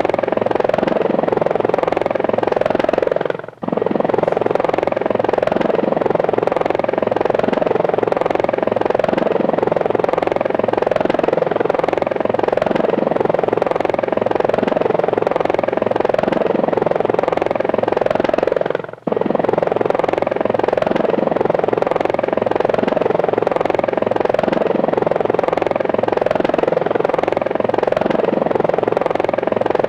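Steady buzzing of a small rotorcraft's electric motors and rotors, heard close up as it flies, dropping out briefly twice.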